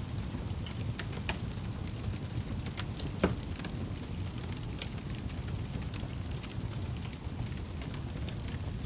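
Wood fire burning in a fireplace: a steady low rumble with scattered crackles and snaps, and one loud pop about three seconds in.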